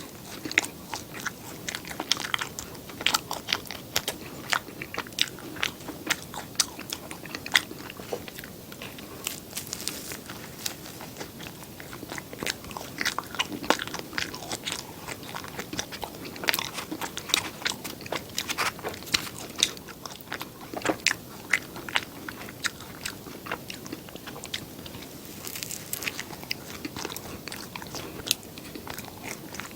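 Close-miked eating: a person biting and chewing, with many quick crunches and moist clicks, several a second.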